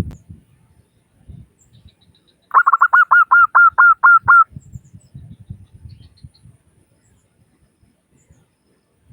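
Zebra dove (perkutut) call: a quick run of about a dozen short, bright cooing notes lasting about two seconds, starting a couple of seconds in. Soft low rumbling sounds come and go around it.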